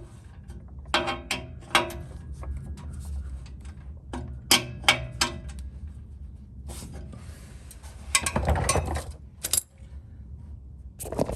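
Metal hand tools clicking and clinking against exhaust hardware while the test pipe's bolts are fastened, with a short rasping scrape about eight seconds in.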